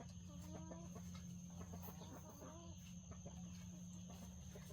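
Chickens clucking faintly in short calls, over a steady low hum and a thin steady high tone.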